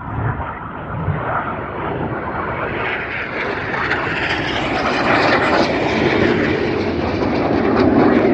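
BAE Hawk T1 jets in display flight, their engine noise a steady roar that grows louder and higher through the seconds as they approach.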